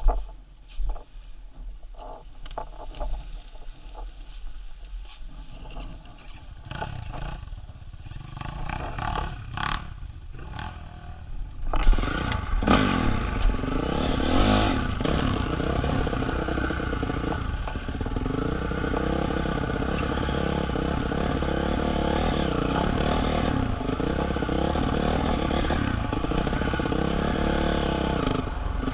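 Scattered knocks and clatter, then a small vehicle engine runs from about twelve seconds in, its revs rising and falling.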